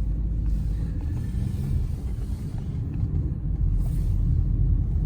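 Car pulling away and driving, a steady low engine and road rumble heard from inside the cabin.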